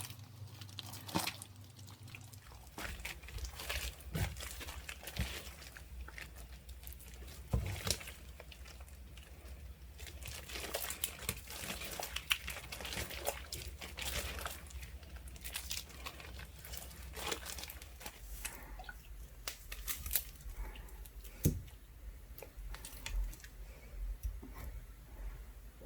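Ice slime mixed with soothing gel being handled and squeezed, giving a dense, irregular run of small crackles and clicks.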